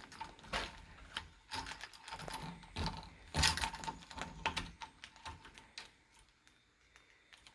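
Pet bird biting and working at a toy with its beak: an irregular run of sharp clicks and knocks that thins out after about five seconds. The rough play is what the owner reads as an aggressive mood.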